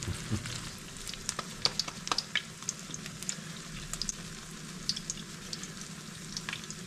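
Mashed-potato pancakes frying in hot vegetable oil in a pan: a steady sizzle with frequent sharp pops and crackles.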